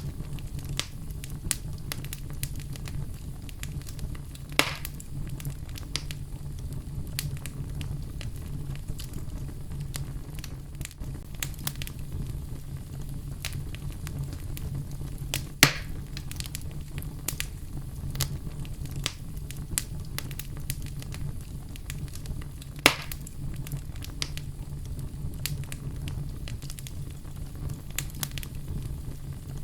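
Wood fire crackling in a fireplace: a steady low rumble of burning under frequent small crackles, with three louder pops spread through.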